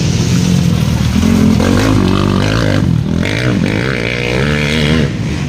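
Motocross bikes' engines revving as they race, pitch rising and falling with the throttle.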